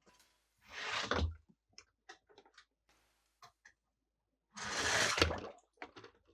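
Toy cars and their plastic being handled: two swells of scraping noise, each about a second long and each ending in a knock, with light clicks between them.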